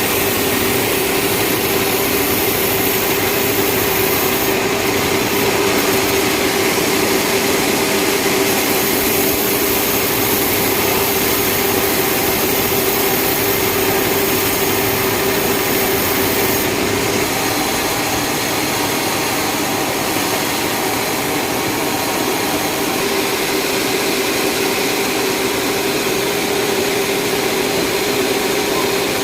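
Sawmill saw running steadily, a loud constant mechanical whine over a broad hissing noise, with small shifts in the high hiss a few times.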